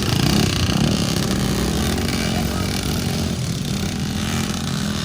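Dirt bike engine running at a fairly steady pitch.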